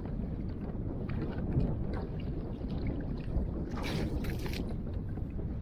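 Wind buffeting the microphone on a kayak on open water: a steady low rumble, with a short burst of hiss about four seconds in.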